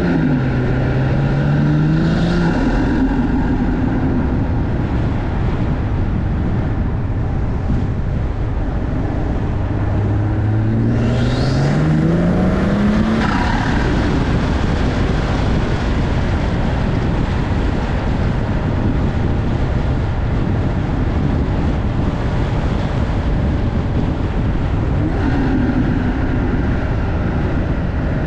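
BMW M340i's B58 turbocharged 3.0-litre inline-six with an MST cold-air intake accelerating hard: the revs climb, drop at an upshift just after the start, and climb again. A second pull about ten seconds in brings a high rising whistle. After it the car runs on steadily with road and wind noise.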